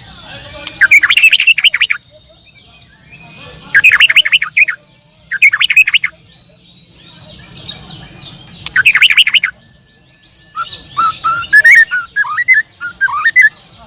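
Caged canaries singing in bursts of fast trills, five loud phrases with a longer, more varied run of warbling notes near the end.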